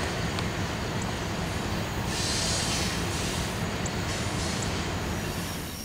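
Freight train of tank cars rolling away along the track: a steady rumble of wheels on rail, with a few brief faint high squeals.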